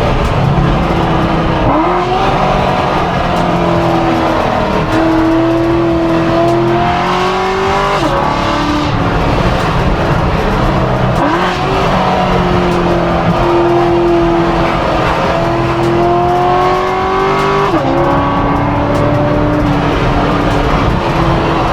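The V8 of an 840-horsepower C7 Corvette accelerating hard through the gears. Its pitch climbs steadily, then drops sharply at each upshift, about four times.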